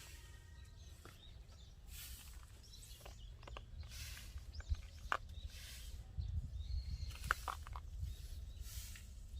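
Outdoor ambience: scattered short bird chirps, one held high note about three-quarters of the way in, over a constant low wind rumble with soft rustling swells.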